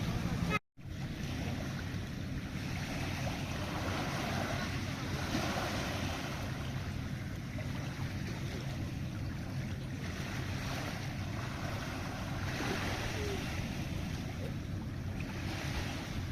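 Steady wind and water noise on open sea with a low, even engine-like hum underneath. The sound cuts out completely for a split second under a second in.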